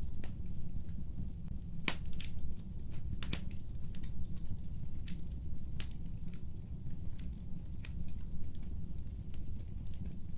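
Fireplace fire crackling: irregular sharp pops and snaps over a steady low rumble of the flames, with two louder pops about two and three seconds in.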